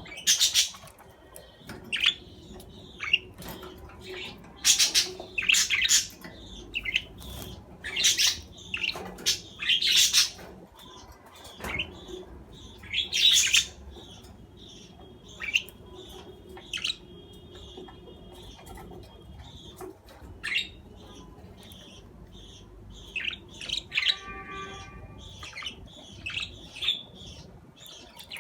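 Budgerigars chirping and giving sharp squawks in short, irregular bursts, with a brief warbling chatter near the end.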